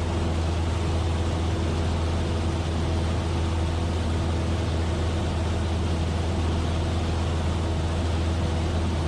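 Cessna 172F's Continental O-300 six-cylinder engine and propeller droning steadily in flight, heard inside the cabin with an even rush of airflow noise.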